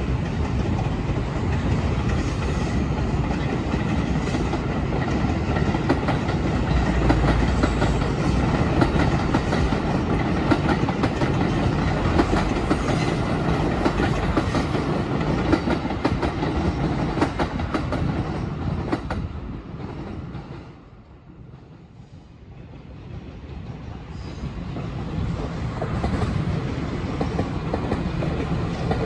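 Electric commuter trains running through the station tracks, a steady rumble of wheels on rail with many small clicks. The noise fades away about two-thirds of the way through, then builds up again near the end as another train comes through.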